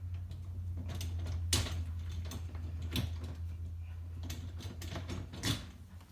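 A removable dishwasher part being worked loose and pulled out by hand: about half a dozen irregular clicks and knocks, over a steady low hum.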